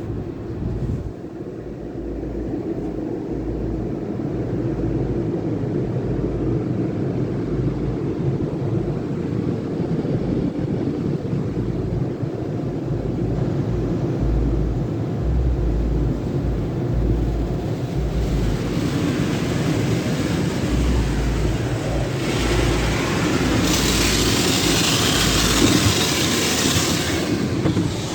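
Automatic car wash tunnel equipment running: a steady low rumble with uneven low thumps, joined about 18 seconds in by a rising hiss that is loudest near the end.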